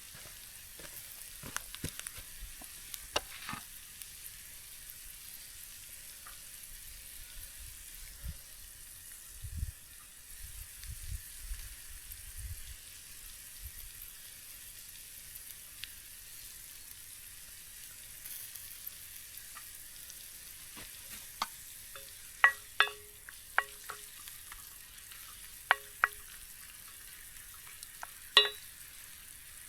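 A hamburger frying in a pan, with a steady high sizzle throughout. A metal utensil clinks sharply against the pan several times in the last eight seconds or so, and these clinks are the loudest sounds.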